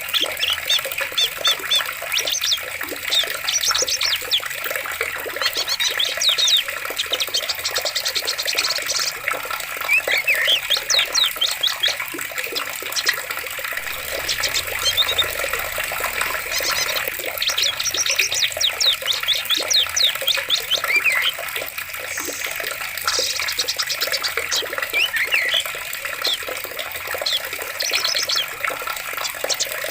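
Running water, steady, with several birds chirping and trilling over it in repeated short phrases.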